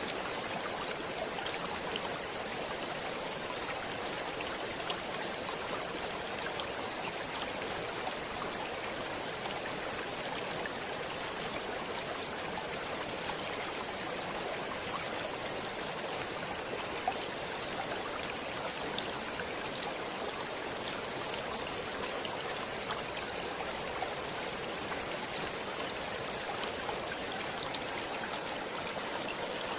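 Stream water running steadily over rocks, an even rushing with small splashes and drips scattered through it.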